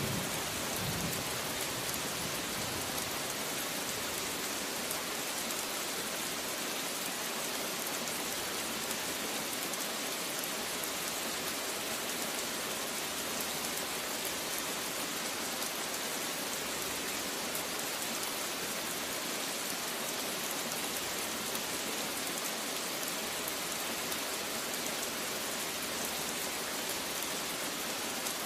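Steady rain falling, an even hiss, with the last of a thunder rumble dying away in the first second.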